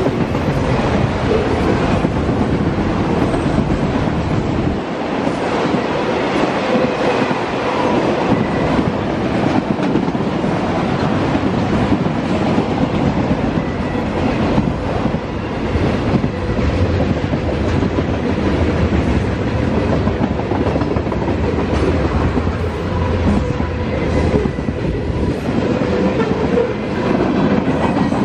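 Norfolk Southern freight train cars rolling past at close range: a loud, steady rumble with the wheels clacking over the track.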